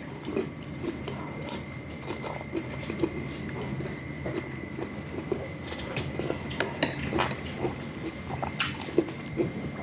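Close-miked eating of rice noodles (pansit bihon) in soup: chewing and wet mouth smacks with many small scattered clicks, and a few sharper clicks.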